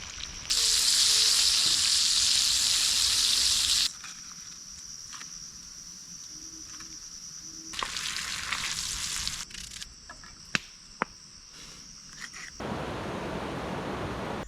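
Fish frying in hot oil in a pan, a loud sizzle that cuts off suddenly about four seconds in. Quieter clips follow, each starting and stopping abruptly: a steady high insect tone, a few sharp crackles, and a low rushing noise near the end.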